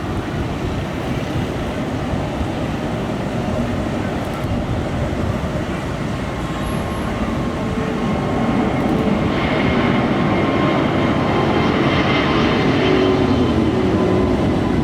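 Jet airliner engine noise: a steady, rumbling roar that grows louder about halfway through, with a high engine whine coming in on top.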